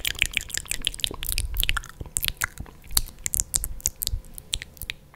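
Close-miked chewing: a dense, irregular run of wet mouth clicks and small crunches.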